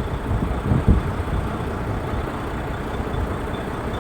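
Steady background noise of distant city traffic, with a few short low thumps on the microphone in the first second.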